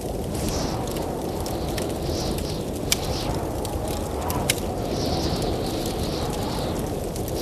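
A blizzard wind blows in a steady deep rush that swells in hissing gusts, under a wood fire crackling in a fireplace. The fire gives scattered small snaps, with two sharper pops about three and four and a half seconds in.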